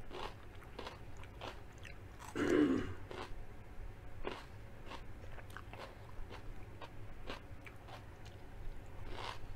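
Close-up crunchy chewing of a raw vegetable stick, with crisp crunches about every half second. One louder burst comes about two and a half seconds in.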